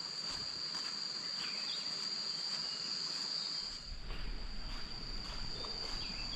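Insects, crickets or cicadas, trilling in one steady, continuous high-pitched tone.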